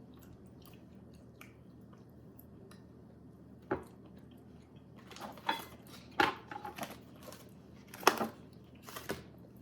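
Close chewing of a soft, chewy Japanese crab stick snack, with small wet mouth clicks. Several louder sharp mouth sounds come in the second half.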